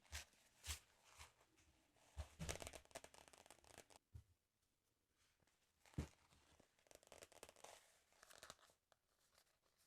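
Paper pages of a sticker album being torn and crinkled in two quiet stretches, with a few soft taps at the start and a single thump in the middle.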